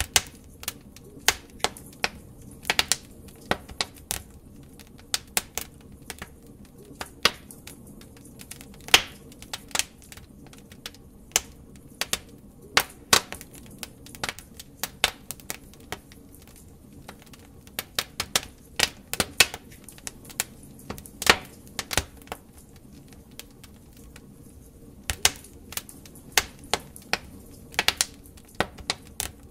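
Wood fire crackling: burning logs give off irregular sharp snaps and pops, sometimes several in quick succession, over a low steady rush of flame.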